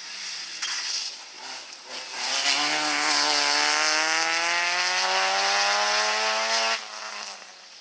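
Peugeot 306 rally car's engine under hard acceleration, the revs climbing steadily for about four seconds and then cutting off abruptly as the driver lifts off.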